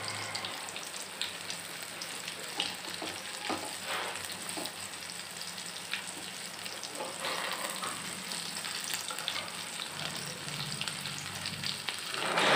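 Besan-battered eggplant slices frying in hot oil in a pan: a steady sizzle dotted with small pops and crackles, with a few louder bursts of crackling.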